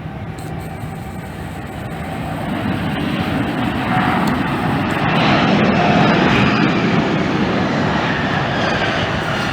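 Jet airliner passing close by. Its engine roar swells to its loudest about six seconds in, and a whining tone on top of the roar falls slightly in pitch as the plane goes past.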